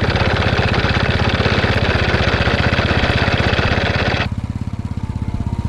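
An engine or motor running with a fast, even pulse, with a loud hiss over it that cuts off suddenly about four seconds in.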